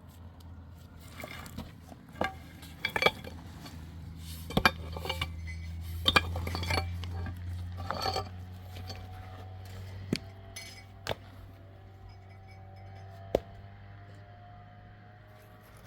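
Scattered clinks and knocks of hard objects being handled, most of them in the first half, some ringing briefly, over a steady low hum.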